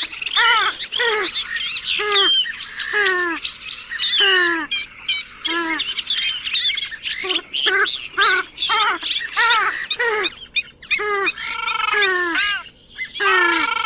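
Purple swamphen calling: a rapid, continuous run of loud calls that each slide downward in pitch, about two or three a second. A faint steady high whine runs behind them.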